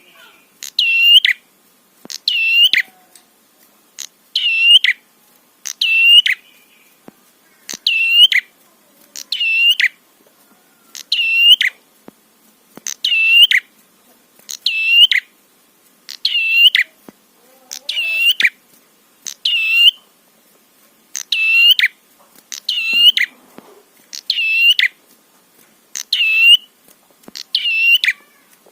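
Red-headed prenjak (a small Indonesian warbler) calling: the same short, shrill, swooping call repeated over and over, roughly every one and a half seconds. It is used as a lure call to provoke other prenjak into calling.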